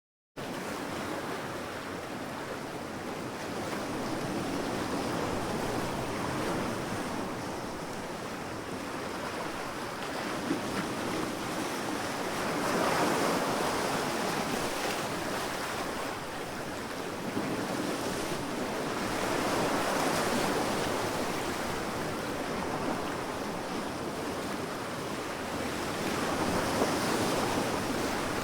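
Sea waves washing onto a sandy beach in a continuous hiss that swells and ebbs, with surges about every seven seconds. The sound cuts in abruptly after a moment of silence, about half a second in.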